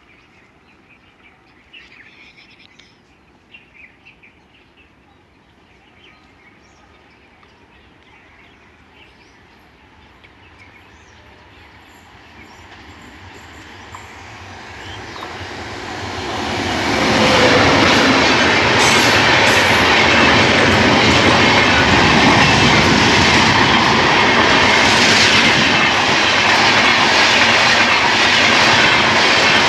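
Amritsar-Indore Express passenger train approaching, growing steadily louder over several seconds, then passing close by at slow speed with the steady rumble and rattle of its coaches and wheels on the rails. A few faint bird chirps sound before it arrives.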